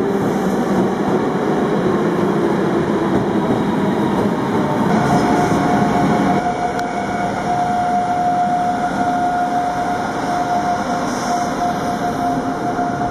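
Passenger coaches rolling past with a steady rumble. About five seconds in, a Siemens Class 189 electric locomotive hauling a container freight train passes, with a steady whine over the noise of the wagons.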